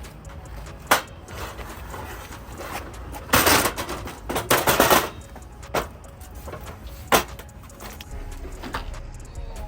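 Ratchet tie-down strap being cranked tight: a few sharp single clicks, and two runs of rapid ratcheting clicks in the middle.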